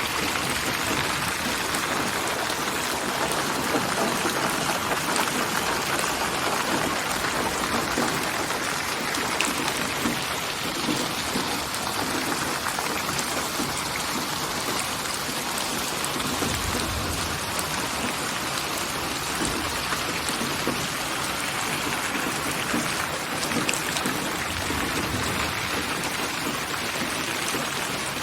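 Steady rainfall: a dense, even patter of raindrops on surfaces, holding at a constant level throughout.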